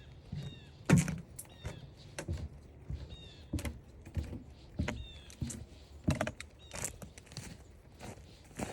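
Footsteps walking along a forest trail, a steady series of short thuds about one to two a second, with a few short falling chirps.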